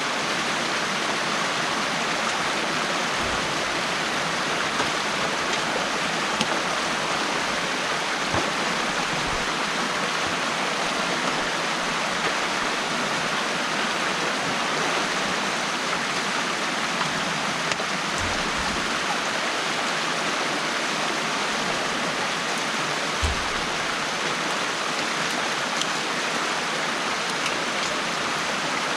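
Water rushing and splashing steadily through an opened beaver dam, with a few dull low thumps scattered through.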